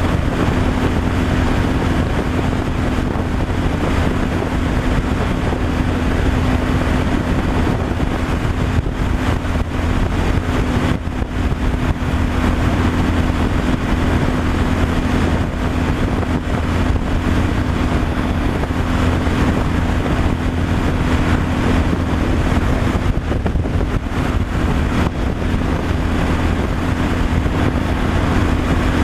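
Truck engine and road noise droning steadily while driving, with a constant low hum.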